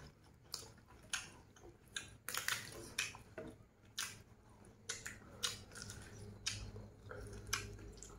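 Two people chewing and biting pieces of roasted duck held in their fingers: irregular wet, crisp mouth clicks and smacks.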